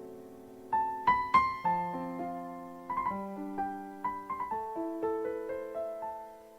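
Slow, soft solo piano music: a chord fading out, then a gentle run of single notes over held chords that dies away near the end.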